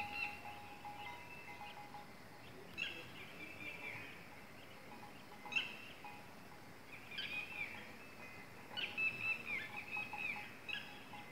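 Birds chirping in short bursts of quick, high calls every second or two over a faint steady hiss, with a faint steady tone in the first two seconds.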